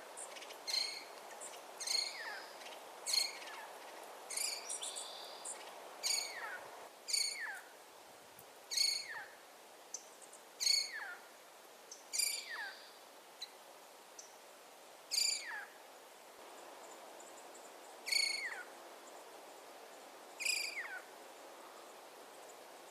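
An animal calling over and over in the wild: about a dozen short, high calls, each dropping sharply in pitch, spaced one to three seconds apart, over a faint steady hiss.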